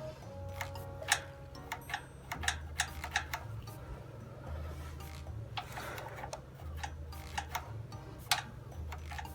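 Irregular light clicks and taps over a low background hum that steps between pitches every second or two.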